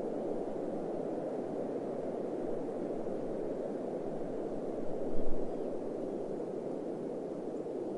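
Steady rushing desert wind, with a brief louder low rumble about five seconds in.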